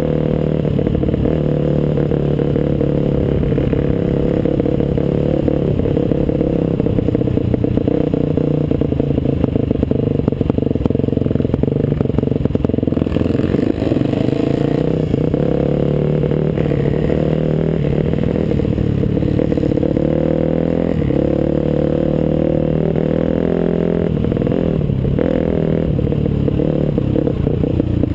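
Off-road motorcycle engine running while riding a trail, its revs rising and falling, with clatter from the rough ground.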